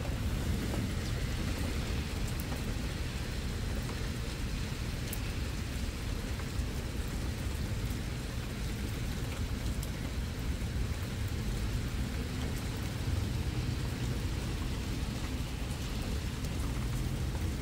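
Steady rain falling on a tiled patio, with a low rumble underneath and a few faint drips.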